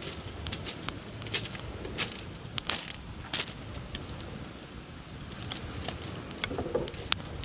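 Irregular sharp clicks and crackles, a few louder than the rest, over a steady low rumble.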